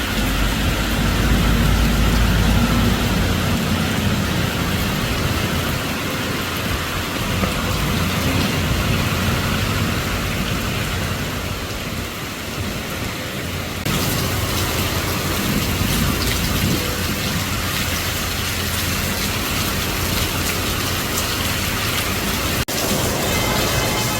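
Heavy rain shower pouring down in a steady hiss, mixed with city traffic. A deep rumble sounds through the first few seconds.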